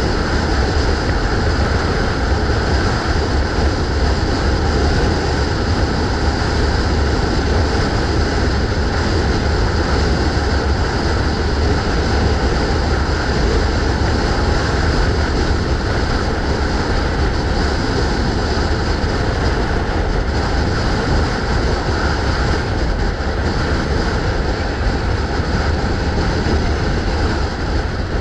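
Steady wind rumble on the microphone mixed with road noise from a moving bike, even and unbroken, heaviest in the low end.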